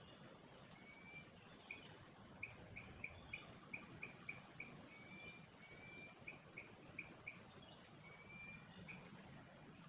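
Faint forest ambience: a bird calling with a run of short chirps and a few longer, level whistled notes, over a steady high insect drone.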